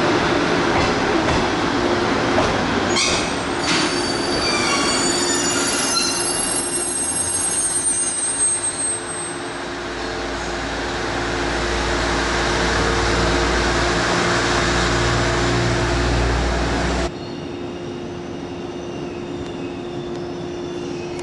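Shinano Railway 115-series electric train pulling slowly into the station, its wheels and brakes giving high-pitched squeals about 3 to 9 seconds in, then a low rumble as it rolls to a stop. A steady hum runs underneath, and the sound drops away abruptly about 17 seconds in.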